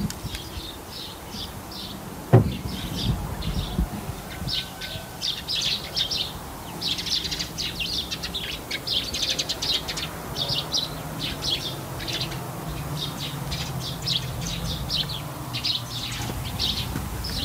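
Small birds chirping, a long run of short, high chirps in quick clusters, with a single sharp knock a couple of seconds in.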